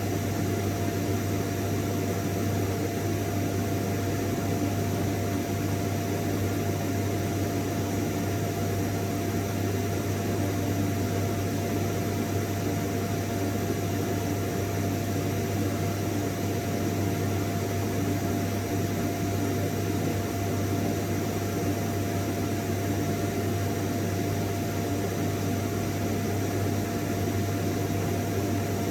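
Vacuum cleaner running steadily: an unchanging low motor hum with a thin steady whine over the rush of air.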